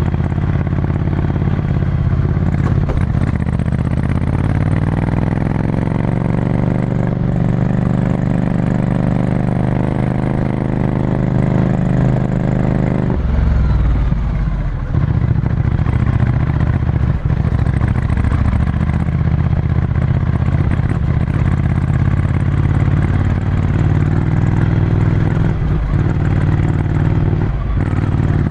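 Ducati Scrambler Desert Sled's 803 cc air-cooled L-twin running through a full Termignoni exhaust, heard from onboard while riding. The engine pitch climbs over a few seconds and holds steady. About halfway through it drops abruptly and runs on at lower revs.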